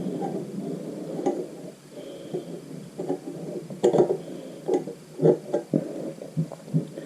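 Irregular light clicks and knocks of metal tools and small parts being handled while fitting the valve spring locks into a Suzuki GN250 cylinder head.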